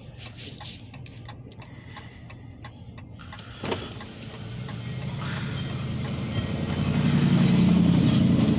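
Light clicking, a single sharp knock, then a vehicle engine's low rumble building and getting steadily louder over the last few seconds.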